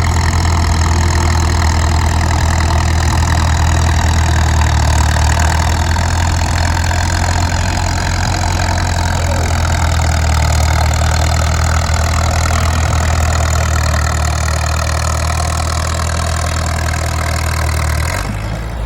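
Case LA tractor's four-cylinder engine running steadily with a deep throb, its pitch easing down slightly. It cuts off abruptly near the end.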